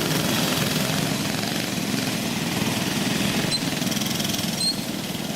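Small go-kart engines running steadily on a dirt track.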